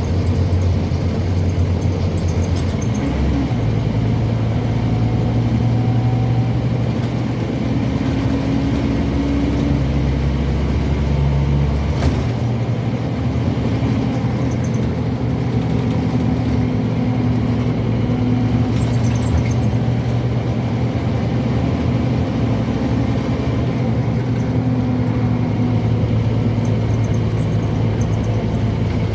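Scania N230UB OmniCity single-decker bus heard from inside while under way: the diesel engine and drivetrain run steadily, and the engine note steps in pitch a few times. A single sharp knock comes about twelve seconds in.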